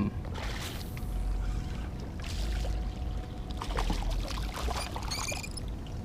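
Water splashing and sloshing at the side of a small fishing boat in several short bursts as a hooked fish fights at the line, over a low steady rumble.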